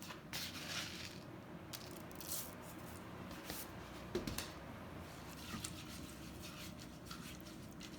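Quick oats being added to and stirred into a thick mixture of rendered beef suet, peanuts and raisins: faint, irregular rustling and scraping strokes.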